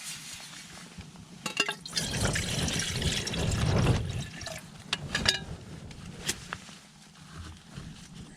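Hot water poured into a freeze-dried meal pouch, a rushing pour that builds for a couple of seconds, with clicks and crinkles from the pouch and pot.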